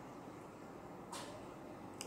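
A person chewing a soft bite of corned beef omelette wrapped in bread, with one short, sharp mouth sound about a second in.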